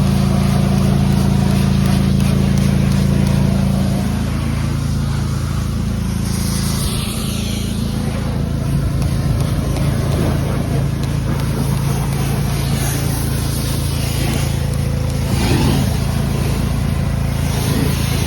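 Pressure washer running steadily, its motor note shifting about four seconds in, with several bursts of hissing water spray.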